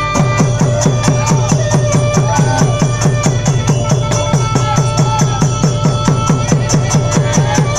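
Nora ensemble music driven by fast, even drumming: about five or six strokes a second, each dropping in pitch, over a steady ringing tone and small high clicks.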